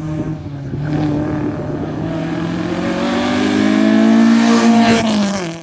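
Rally car engine revving hard, climbing steadily in pitch and getting louder, then dipping just before the sound cuts off suddenly.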